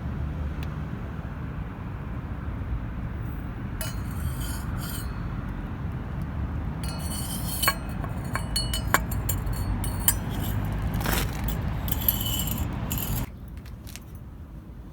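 Daihatsu Mira Gino's engine idling with a steady low exhaust rumble through its aftermarket cannonball-type muffler, while metal parts clink and jangle now and then. The rumble drops away sharply about thirteen seconds in.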